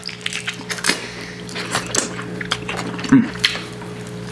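Biting and chewing into a lamb shank, teeth tearing meat off the bone with a run of wet, irregular clicks and smacks. A louder, low mouth sound comes about three seconds in.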